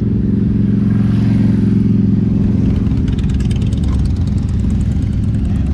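Motorcycle engine running at low revs close by, a steady drone that swells a little about a second or two in.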